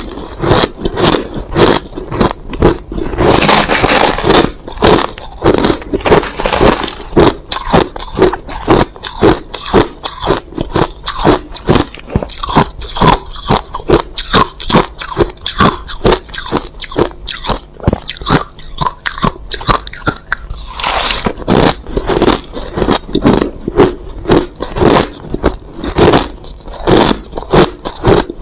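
Crushed ice being bitten and chewed close to the microphone: a steady run of loud, sharp crunches about two or three a second, with longer grinding scrapes of ice a few seconds in and again about three quarters of the way through.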